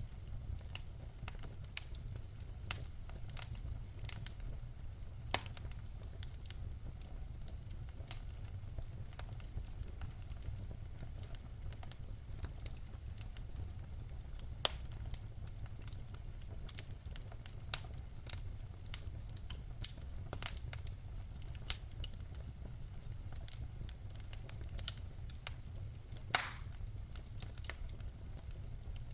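Wood fire burning in a fireplace: a steady low rumble of flames with irregular crackles and pops from the burning logs, one louder pop near the end.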